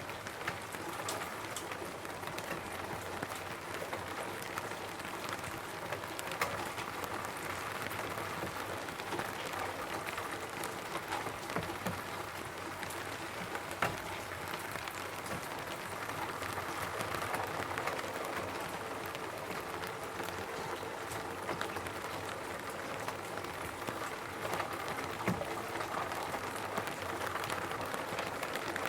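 Steady rain falling on a roof, with the scattered taps of single raindrops standing out from the even patter.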